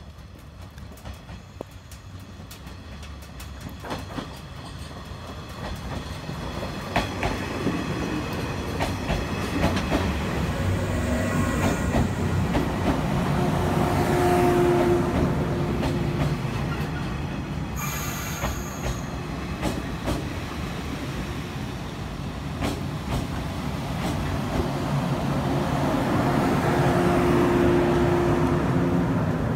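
A 115 series electric train approaches and runs along the platform, growing louder as it nears. Its wheels click over the rail joints, with several brief high squeals.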